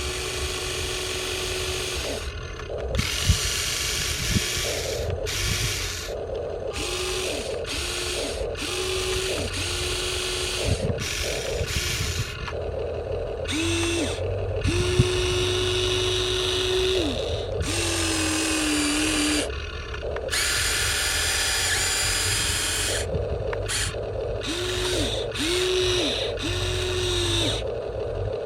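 Huina 1593 RC excavator's electric motors and gearboxes whirring in repeated short bursts as its controls are worked, each run starting and stopping within a second or two, with a few sharp knocks among them.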